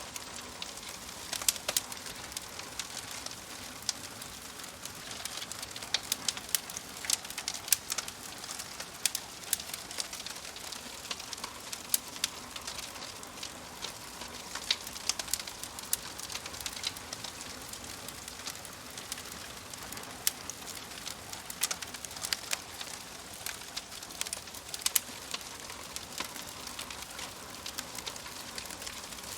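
Wood campfire crackling: a steady hiss of burning with frequent sharp, irregular pops and snaps.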